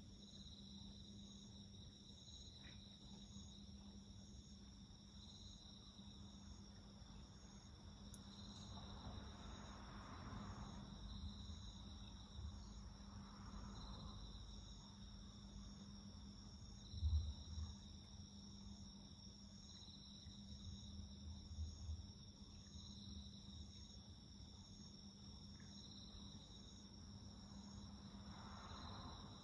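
Faint insects calling in a steady chorus of several shrill, overlapping calls, one swelling and fading about every two seconds. Underneath is a steady low hum, and a short low rumble comes about two-thirds of the way through.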